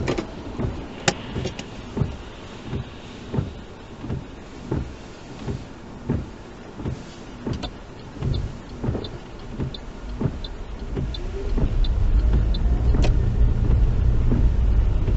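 A car's turn indicator ticking at an even pace, about one tick every 0.7 seconds, as the car moves off to turn left. Near the end, engine and road noise rise as the car gathers speed.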